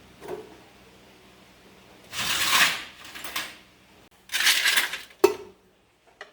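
Objects being handled: two scraping, rustling stretches, then a single sharp clink.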